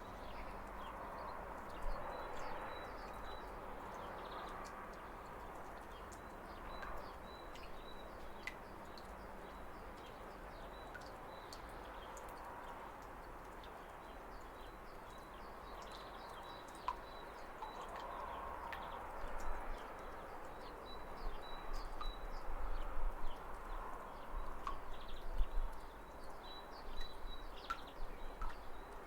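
Waterfall splashing steadily, with small birds chirping over it: a short high note repeated again and again, and scattered quick chirps. A low rumble swells in the second half.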